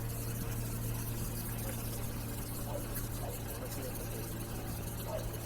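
Steady low mechanical hum at one unchanging pitch, with faint distant voices over it.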